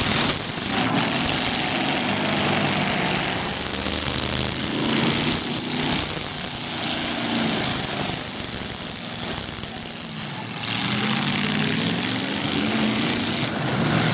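Demolition derby cars' engines revving, the pitch rising and falling repeatedly as several cars run on the track.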